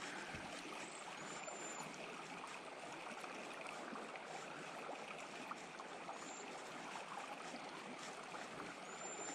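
River water rushing steadily and faintly, with a few short, faint high-pitched chirps.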